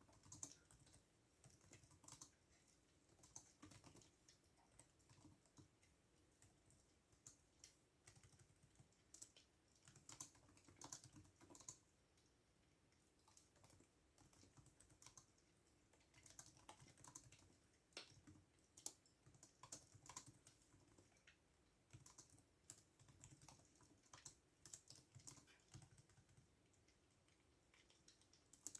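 Computer keyboard typing, quiet and soft, in irregular runs of keystrokes with short pauses between them.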